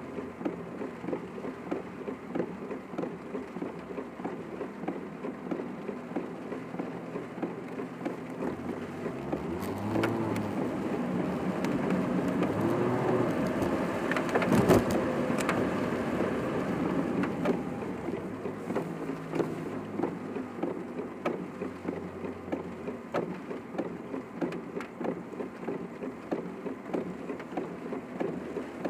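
Rain pattering on a moving car, heard from inside the cabin over the car's engine and tyre noise, which swells louder for several seconds in the middle.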